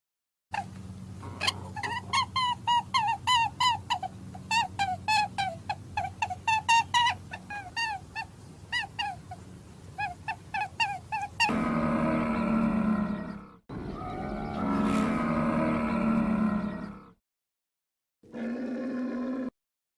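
Animal calls: first a rapid series of short, high chirping calls for about eleven seconds, then several low, drawn-out pitched calls with short breaks between them.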